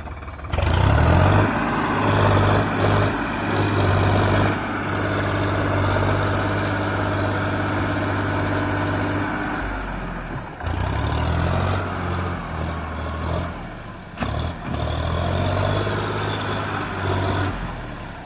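Tractor diesel engine revving high. It eases off about ten seconds in and briefly again a few seconds later, then revs back up each time.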